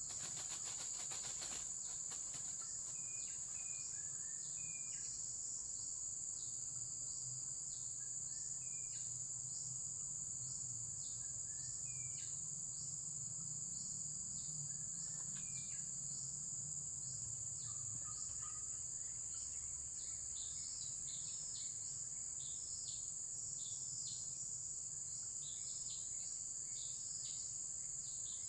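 Steady high-pitched chorus of insects, with short chirps scattered through it. A run of rapid clicks in the first couple of seconds.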